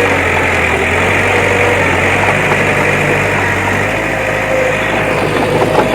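Heavy earthmoving machine's diesel engine running steadily; its low hum shifts about four seconds in.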